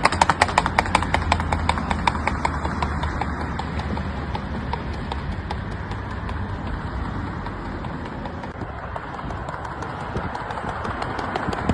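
Horse's hooves striking the ground in the andadura, a fast lateral gait: rapid, even hoofbeats, loud at first, fading in the middle and growing louder again near the end.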